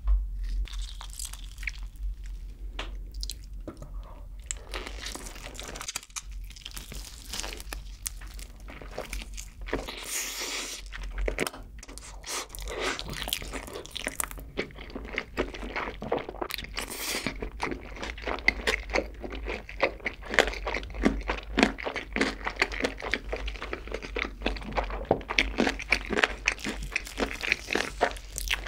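Close-miked crunching and chewing of crispy fried chicken drizzled with cheese sauce, bitten off the bone. The bites come fast and irregular, and grow louder and denser in the second half.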